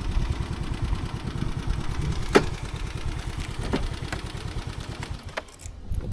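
Motorbike engine running at low revs with a fast low pulse, with a few sharp clicks, and the engine sound falls away near the end.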